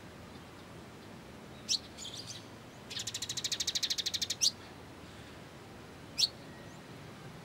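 Small songbird calling: sharp high down-slurred chirps, three in all, one near the start, one right after the trill and one past the middle. In between comes a fast, even trill of about ten notes a second lasting over a second.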